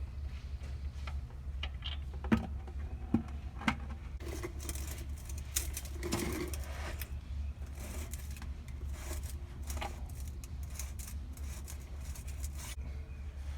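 Hand tools working under the truck during an oil change: three sharp metallic clicks a few seconds in, then irregular scraping and rustling of tools and parts, over a steady low hum.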